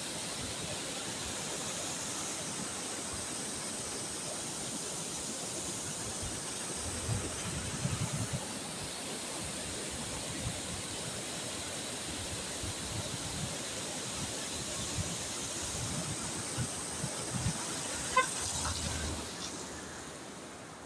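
Floodwater from heavy rain rushing steadily along a channel as the first flow arrives and rises, with a few low bumps and a short high chirp near the end.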